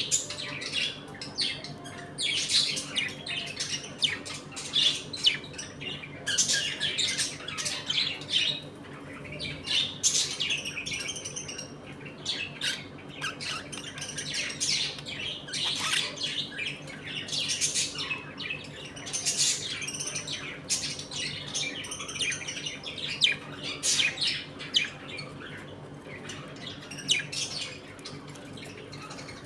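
A colony of budgerigars chattering and squawking, with many short overlapping chirps and calls.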